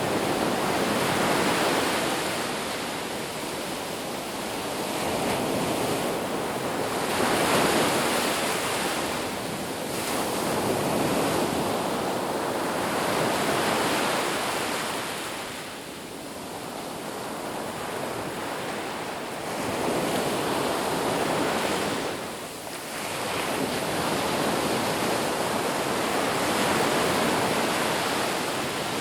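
Ocean surf breaking on a beach, a continuous wash of noise that swells and eases with each wave every few seconds.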